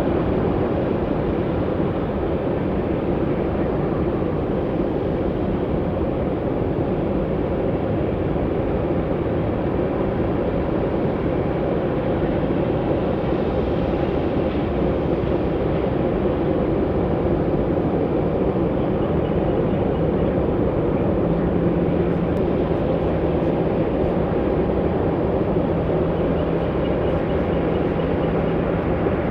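Steady jet aircraft engine noise, even and unbroken, with a faint low steady hum coming in about two-thirds of the way through.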